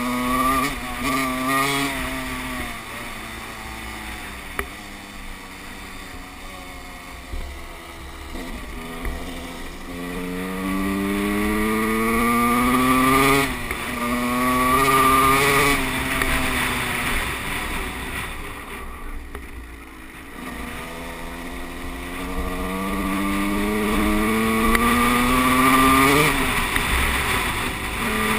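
Motocross bike engine accelerating hard: its pitch climbs in several long rises, dropping back sharply at each shift. It falls to a low ebb about two-thirds of the way through, then climbs again.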